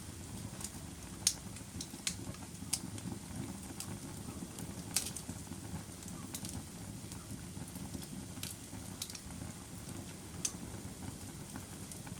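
Fire burning in a fireplace: a steady low rumble of flame with sharp crackles and pops every second or two.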